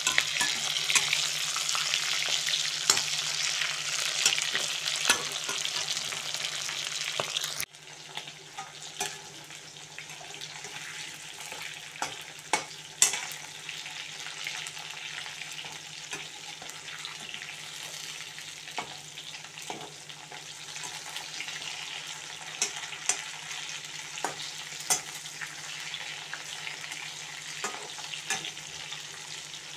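Chicken pieces sizzling in hot oil in a wok, stirred with a slotted spoon that clicks and scrapes against the pan. The sizzle drops suddenly about a quarter of the way in and carries on quieter, with occasional sharp clicks of the spoon.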